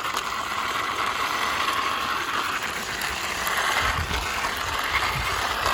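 Toy sports motorbike making a steady mechanical whir, like toy gears and wheels spinning.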